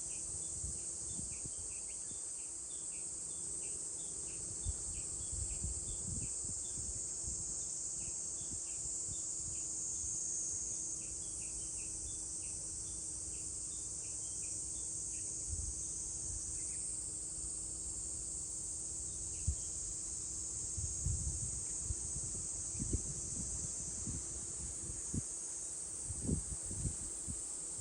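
Cicadas droning in a steady high-pitched chorus. Short, high chirps repeat through roughly the first half, and irregular low rumbles come and go, more often near the end.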